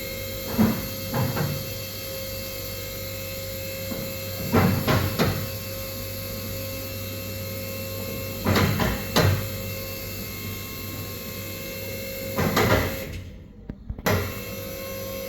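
Heavy truck lift's motor running with a steady hum, with clunks at intervals of a few seconds.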